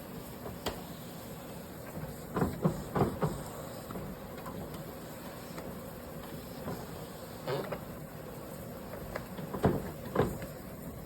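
Scattered knocks and light clatter of things being handled inside a refrigerator, in small bunches of two or three a few seconds apart.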